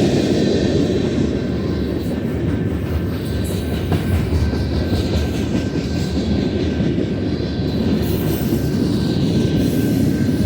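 Freight cars of a Union Pacific manifest train rolling past: a steady rumble of wheels on rail.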